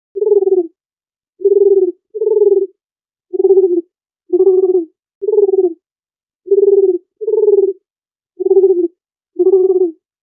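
A dove cooing: ten short, low coos of about half a second each, some coming in close pairs.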